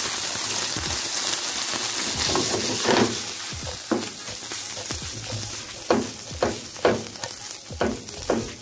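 Banana gnocchi sizzling in butter with garlic and onions in a frying pan, the hiss strongest in the first few seconds. From about three seconds in, a run of short knocks and scrapes as the gnocchi are stirred around the pan.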